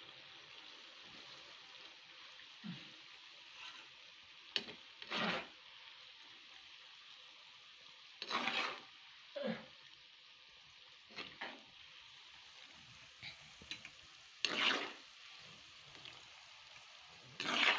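Sliced bitter gourd frying in oil in a wok with a steady low sizzle; the gourd is half-cooked. A metal slotted spoon scrapes and scoops through it in short strokes every second or few, louder than the sizzle.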